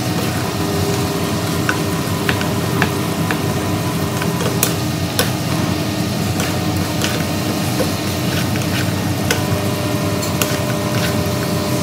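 Beef frying in a bubbling sauce in a nonstick pan, sizzling steadily, while a wooden spatula stirs it with scattered short clicks and scrapes against the pan.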